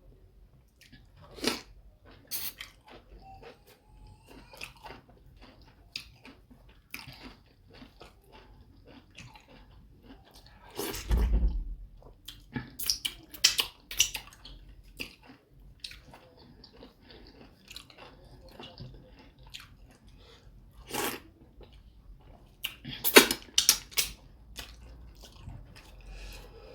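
Close-up mouth sounds of a person eating fufu with soup: wet chewing, smacking and clicking, irregular throughout, with louder bursts about eleven seconds in and again near the end.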